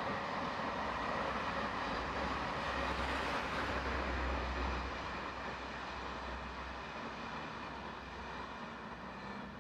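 Distant locomotive-hauled passenger train running across a stone viaduct: a steady rumble of wheels and traction that swells about three to five seconds in, then slowly fades as the train moves off.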